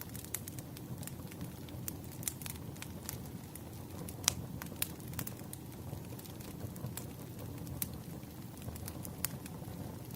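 Bonfire crackling: irregular sharp pops and snaps of burning wood over a low steady rumble, with one louder pop about four seconds in.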